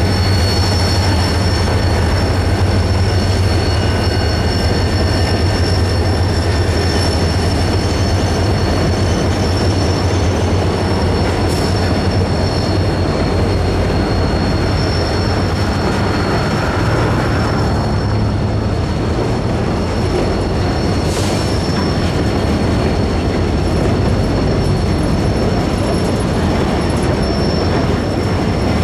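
Freight train of empty ore hopper cars rolling past at low speed, with a steady low rumble of the train and its diesel locomotive. Steel wheels squeal with thin, steady high-pitched tones.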